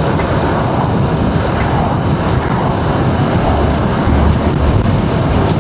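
Steady wind rush and road noise on a helmet microphone, on a small motorcycle riding at speed.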